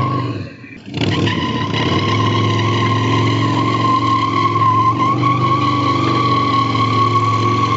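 Motorcycle engine running steadily, with a brief drop in sound about half a second in before it picks up again.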